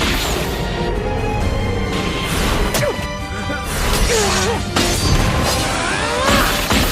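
Anime sword-fight sound effects: a rapid series of sword strikes and crashing impacts over dramatic background music, with a few shouted battle cries.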